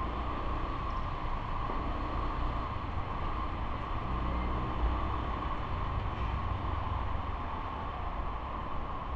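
Steady riding noise on an action camera's microphone: a continuous low rumble of wind and road with a constant hiss, no sudden events.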